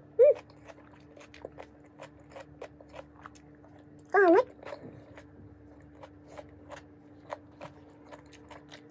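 Close-mouthed chewing of stir-fried vegetables: a steady run of small crunching and wet mouth clicks. About four seconds in there is one brief, loud, wavering high-pitched whine.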